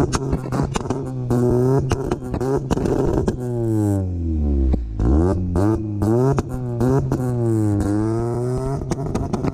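Honda B18 four-cylinder engine revved repeatedly against its two-step launch-control rev limiter. The revs climb and drop several times, with a rapid run of sharp pops and crackles while it sits on the limiter.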